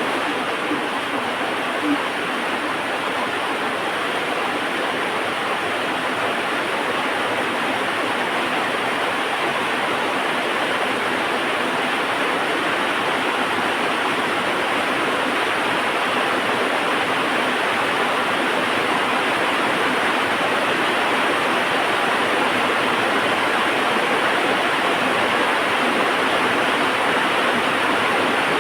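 Heavy rain falling steadily in a dense, even hiss that grows slightly louder over the stretch, with a small pop about two seconds in.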